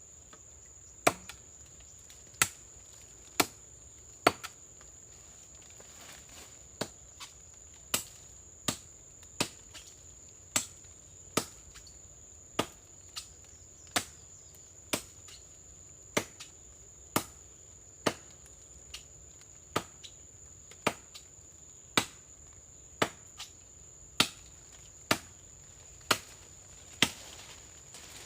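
Chopping blows into a coconut palm trunk, sharp single strikes about once a second at an even pace. A steady high insect drone runs underneath.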